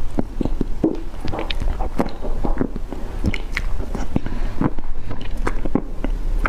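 Close-miked eating sounds: a person biting and chewing cream cake, with irregular wet mouth clicks and smacks.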